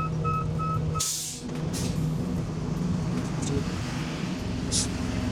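Box truck backing up, its reversing beeper sounding about three times a second until it stops about a second in. A short air-brake hiss follows as the truck is stopped and parked. The diesel engine idles underneath, with another brief hiss near the end.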